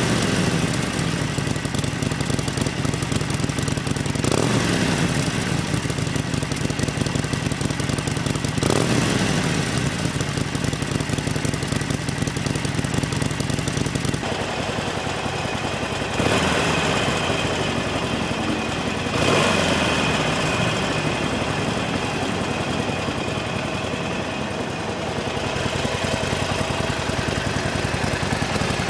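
Harley-Davidson Sportster XL1200CX Roadster's 1200 cc air-cooled V-twin idling, with the throttle blipped about five times: the engine revs up briefly and falls back to idle each time.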